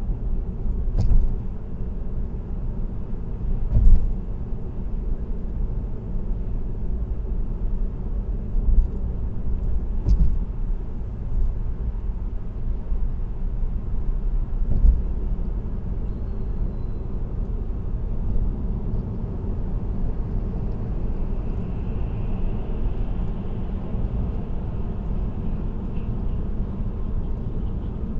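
Car tyre and road noise heard from inside the cabin while cruising on an expressway: a steady low rumble with a few short thumps.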